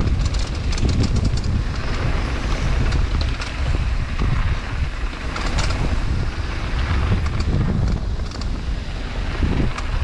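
Wind buffeting a moving camera's microphone during a downhill mountain bike ride, with tyres rolling on dirt and frequent sharp clicks and rattles from gravel and the bike.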